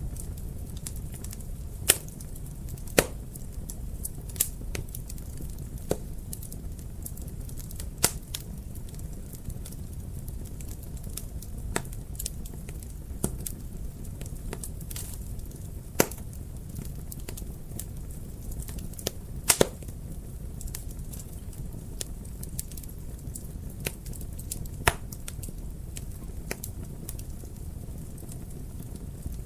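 Wood fire in a fireplace crackling: irregular sharp pops and snaps over a steady low rumble of the flames, with a few louder pops scattered through.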